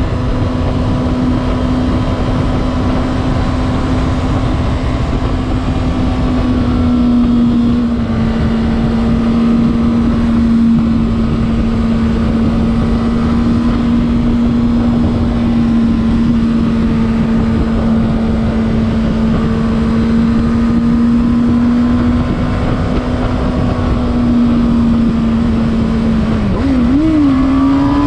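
Honda CBR600RR's inline-four engine running at a steady high pitch at cruising speed, under heavy wind rush on the microphone. Near the end the pitch dips and wavers, then climbs as the revs rise.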